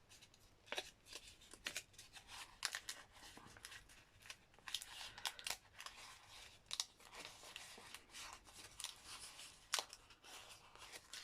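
Pleated, ink-dyed copy paper crackling and rustling faintly in short irregular crackles as it is opened out by hand.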